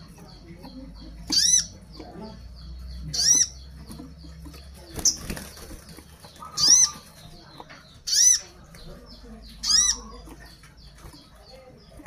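Caged sogon bird calling: a short, sharp, rising-and-falling note repeated about every one and a half seconds, a call to other birds of its kind. Wings flutter briefly about five seconds in.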